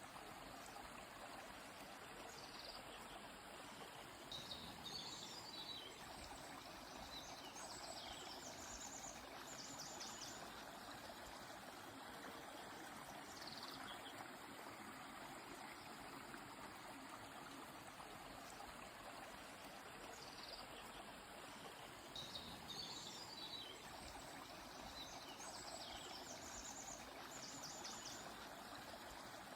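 River water flowing steadily and faintly, with birdsong: a bird sings a short run of chirps ending in a rapid trill twice, about four seconds in and again about twenty-two seconds in.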